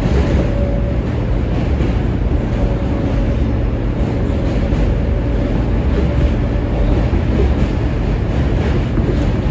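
R143 subway car running along the track: a steady rumble of wheels on rail and car noise, with a faint whine heard on and off.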